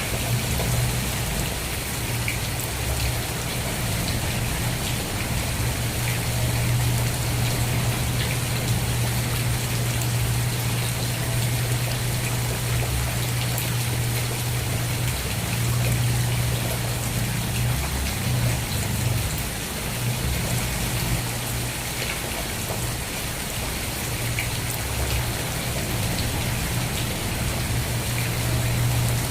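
Steady rain falling, a constant hiss with scattered drop ticks, over a low rumble that fades and returns a few times.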